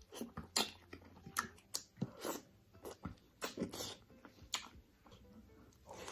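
Close-miked eating: an uneven run of sharp, crisp bites and chews, about a dozen over six seconds.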